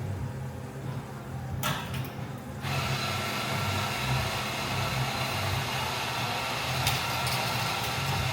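Café coffee machine starting up about three seconds in and running steadily with an even whirring hiss over a low pulsing hum.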